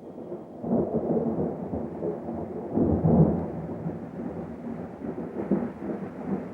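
Thunder rumbling and rolling in swells, loudest about three seconds in.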